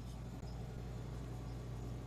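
A new R600 refrigerator compressor running with a steady low hum.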